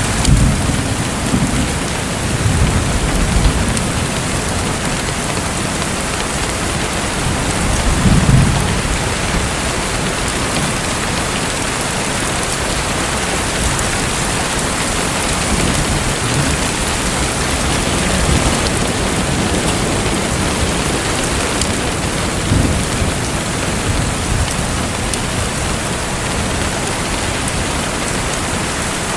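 Steady rushing water noise with a few brief low rumbles, the strongest about eight seconds in.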